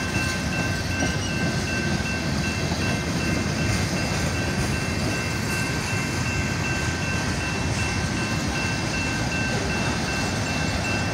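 Freight train cars rolling steadily past over a grade crossing: an even rumble of wheels on rail, with a thin, steady high-pitched tone over it.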